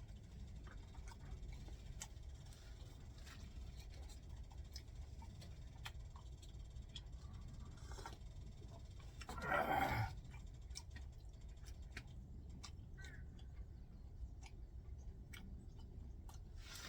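Quiet eating sounds: scattered small clicks and ticks of chewing and handling food, with one louder, noisy sound lasting under a second about nine seconds in.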